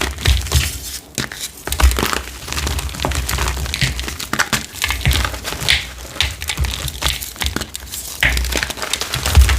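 Blocks of gym chalk being crushed by hand, with dense, irregular gritty crunching and crackling and low thumps mixed in.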